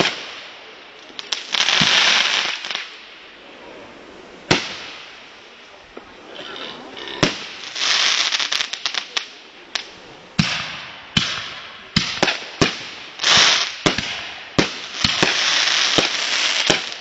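Consumer fireworks going off: a string of sharp bangs at uneven intervals, mixed with stretches of hissing and crackling lasting a second or two each.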